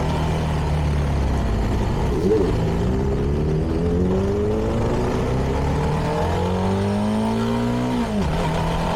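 CFMoto 300NK's single-cylinder engine through its stock exhaust, pulling under acceleration: the pitch dips briefly about two seconds in, then rises steadily through a gear and drops sharply at an upshift near the end.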